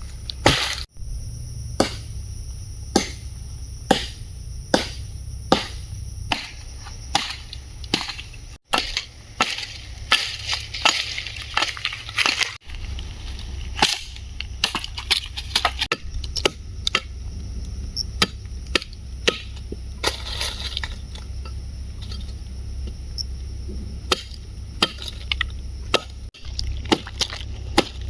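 Wood being chopped for a campfire: repeated sharp strikes, about one a second, with a steady low rumble underneath.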